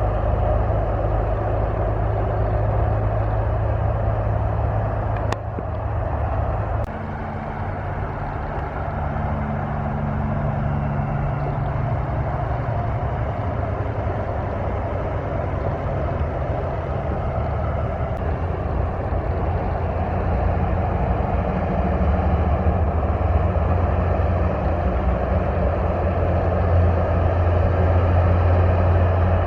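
Road traffic: a vehicle engine running steadily with tyre and road noise. Its low engine note changes about seven seconds in and grows slightly louder toward the end.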